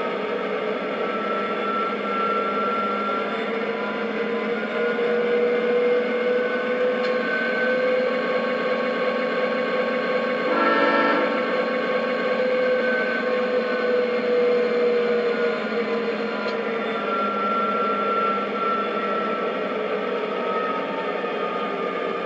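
O scale MTH SD90MAC model locomotive running on 3-rail track, its speaker playing an SD60M diesel engine sound with a steady hum whose pitch slowly rises and falls. There is a short blast, likely the horn, about halfway through.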